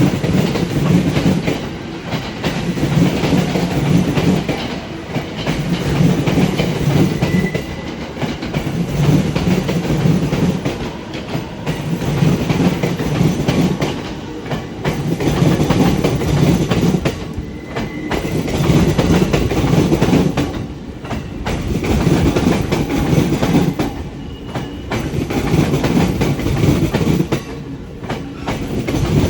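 Sobu Line commuter train passing over rail joints, heard from trackside: a rhythmic clickety-clack of wheels striking the joint gaps. The clatter comes in loud groups about every two to three seconds as each car's wheel sets cross the joints.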